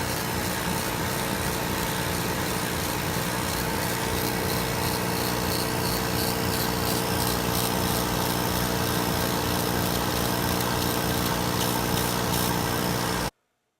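Indian Thunder Stroke 111 V-twin motorcycle engine running at a steady speed through Thunder Works slash-cut slip-on exhaust pipes, with an even note that does not rise or fall. The sound cuts off abruptly near the end.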